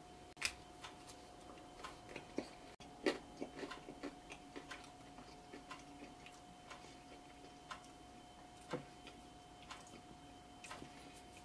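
Faint crunching and chewing of a bite of crisp, thin frozen-pizza crust: scattered soft crackles and clicks, with light ticks about once a second in the middle and a faint steady tone underneath.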